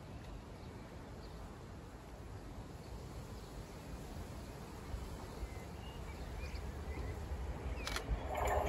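Quiet trackside ambience of a low rumble and a few faint bird chirps as a High Speed Train approaches from far off. The train's sound builds slowly and swells near the end.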